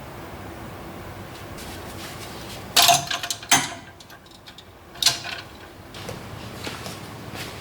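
Room fittings being handled: a sharp scraping knock about three seconds in, a second half a second later, and a third about a second and a half after that, over steady room noise.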